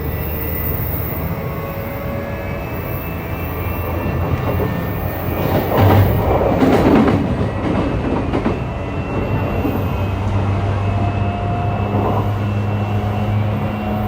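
Running noise of a JR East E235-1000 series electric train heard on board, with faint motor tones over the rumble of the wheels on the track. About six seconds in the noise swells for a couple of seconds.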